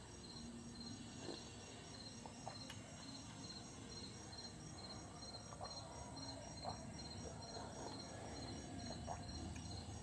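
Crickets chirping faintly and steadily, an even pulse of about three chirps a second.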